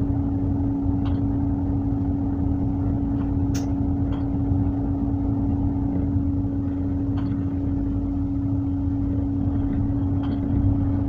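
Tugboat's diesel engine running steadily: a low rumble with a constant, unchanging hum above it.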